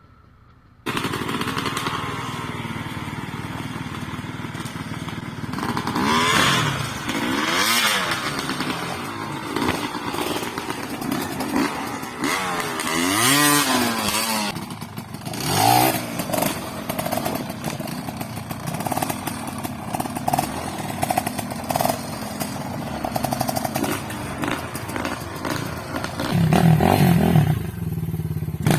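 Two-stroke enduro motorcycle engine revving up and down while riding. It starts suddenly about a second in, and the revs climb and drop repeatedly, loudest in a few surges along the way.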